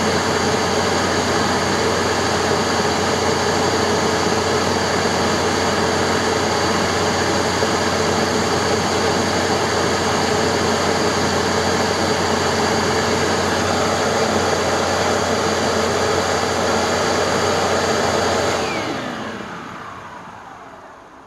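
Hoover Tempo Wide Path bagged upright vacuum cleaner running loud and steady, its motor driving the brushroll on a new belt at about 5,400 RPM. About three seconds before the end it is switched off, and the motor and brushroll wind down with a falling whine.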